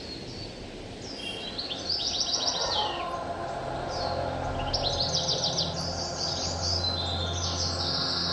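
Small birds chirping, with several quick trills of rapidly repeated high notes, over a low steady hum.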